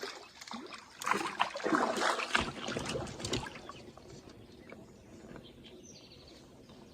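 Water splashing and sloshing for about two and a half seconds, starting about a second in, as the hooked rock bass is brought in from the river.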